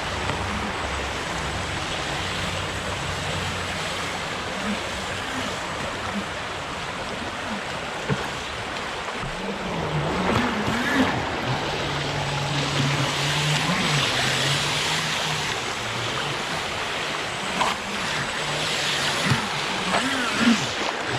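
A high, fast-flowing creek rushing steadily. From about ten seconds in, a fainter low hum rises and falls in pitch over it, with a few short knocks near the end.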